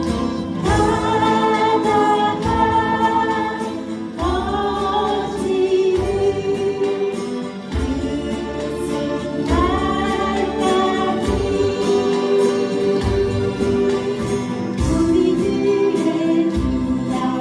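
Korean folk song sung to acoustic guitar, the voices holding long notes with a steady strummed beat underneath.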